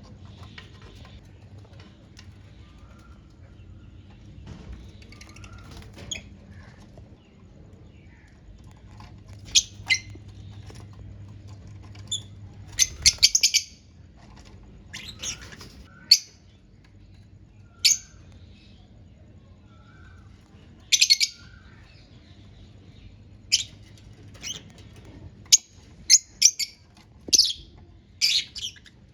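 Lovebirds giving short, shrill chirps and squawks in scattered bursts, coming more often in the second half, over a faint steady low hum.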